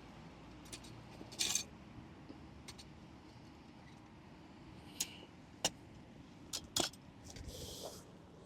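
Camp gear being handled: a few sharp clicks and clinks, with a short hiss near the end, over a faint steady background.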